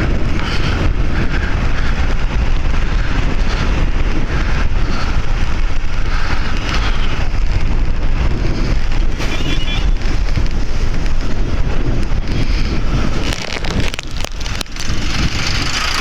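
Wind buffeting the microphone over the steady running of a Bajaj Avenger motorcycle on the move; the rumble eases off about thirteen seconds in as the bike slows.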